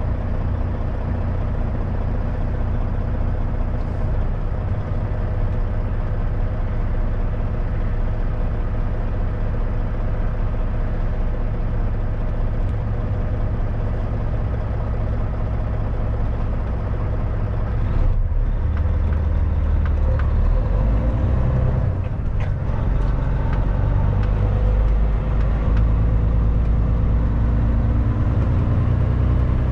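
Kenworth W900 semi truck's diesel engine running while driving. About eighteen seconds in the sound breaks briefly, then comes back louder, with the engine pitch climbing.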